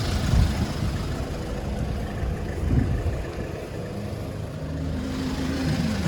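Hyundai Porter II truck's diesel engine idling steadily, with a couple of dull low knocks.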